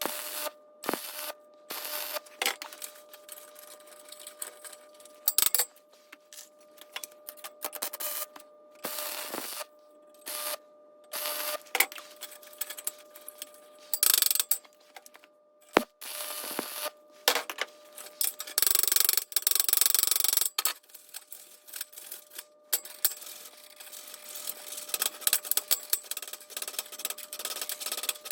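Metal parts clinking and knocking as they are handled and fitted during a DIY build, in irregular sharp clicks over a faint steady hum, with a longer scraping rush a little past the middle.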